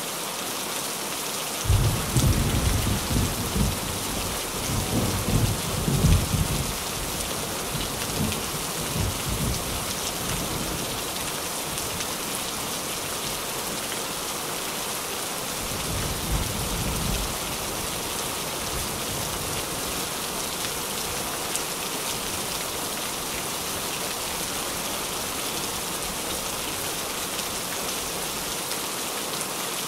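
Steady rain drumming on a tin roof. Thunder rolls in about two seconds in, peaks over the next few seconds and dies away, and a second, shorter rumble of thunder comes about halfway through.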